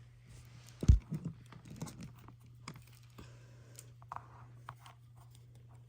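Scattered light handling noises, short clicks and rustles, with one louder thump about a second in, over a low steady hum.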